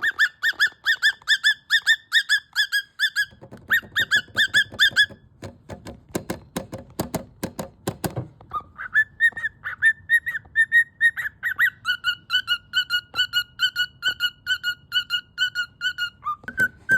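Pet cockatiel calling insistently: rapid, repeated whistled chirps, about five a second, broken by a few seconds of sharp clicking sounds about halfway through before the chirping resumes at a slightly lower pitch. In context, the bird is protesting at being put to bed.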